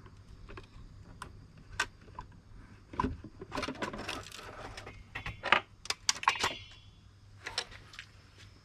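Irregular small metallic clicks and clinks of screws and hand tools being handled while a circuit board is unscrewed from a portable power station, a few of them ringing briefly.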